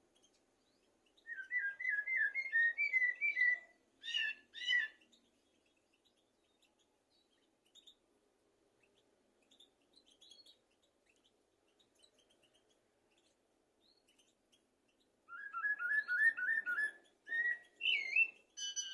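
Common blackbird singing: two song phrases, one near the start and one near the end, each a fast run of repeated whistled notes followed by a few higher, sharper notes.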